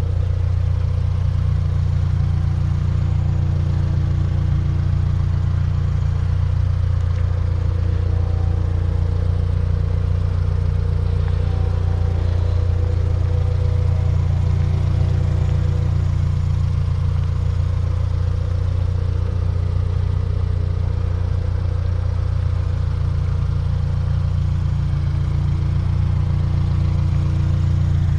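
Turbocharged Scion FR-S flat-four engine and exhaust running with a steady low drone, holding even revs with no rises or falls.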